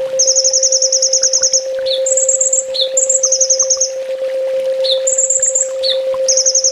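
Brown-throated sunbird (kolibri ninja) singing: rapid high trills, one long trill of about a second and a half near the start, then shorter trill bursts alternating with brief down-slurred notes. A steady hum tone runs underneath.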